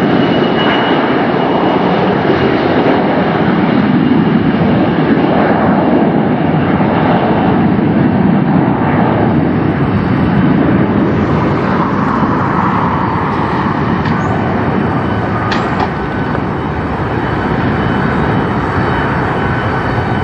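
Jet airliner's engines at takeoff power: a loud, steady rush with a thin high whine, easing slightly in the second half.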